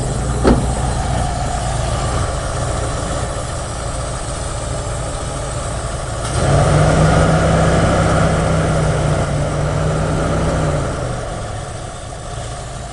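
Ford 302 V8 with a two-barrel carburettor idling steadily, with a sharp click about half a second in. About six seconds in, a louder steady hum with a hiss of air comes in abruptly and eases off again about five seconds later.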